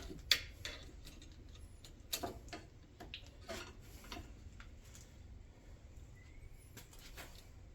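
Scattered light clicks and taps of the shifter cable and its small metal hardware being handled and fitted into the console shifter, over a faint low hum.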